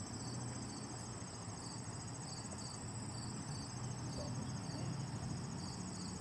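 A steady high chorus of insects such as crickets or katydids, trilling continuously with a pulsing beat somewhat under twice a second.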